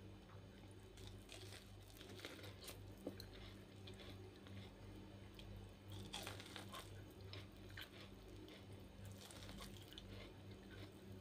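Faint biting and chewing of boiled corn on the cob: kernels crunching and popping off the cob in several bouts of small clicks.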